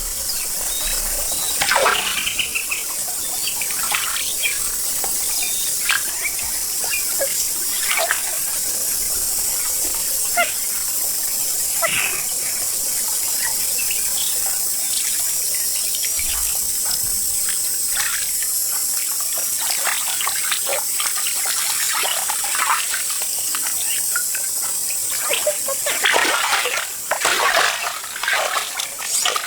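Pond water splashing and sloshing in short, irregular bursts as someone wades and feels through the shallows by hand for freshwater clams, over a steady high-pitched hiss.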